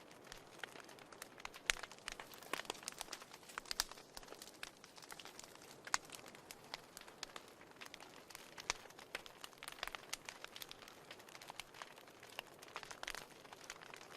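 Wood fire in a fireplace crackling: irregular sharp pops and snaps over a soft hiss.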